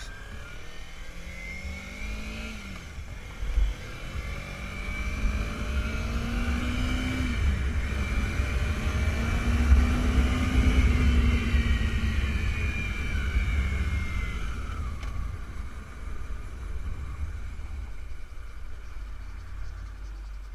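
Motorcycle engine pulling through the gears while riding: the engine note climbs and drops back at each upshift twice, then swells to its loudest about ten seconds in and slowly eases off. Wind buffets the microphone throughout.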